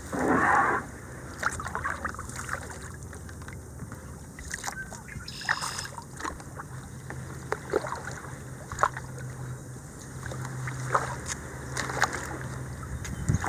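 Kayak paddling on a small creek: a loud paddle splash right at the start, then scattered short splashes and knocks as the paddle dips and the boat moves along.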